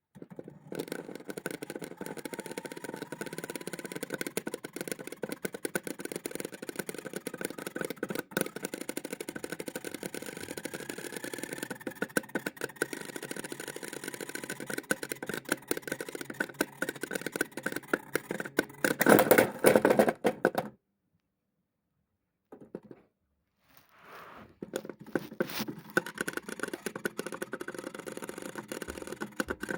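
LG washing machine drum turning with wheels and tires tumbling inside: a dense, rapid clatter of knocks over a faint motor whine that slowly rises in pitch. It grows louder just before the sound cuts out for about four seconds, then the clatter resumes.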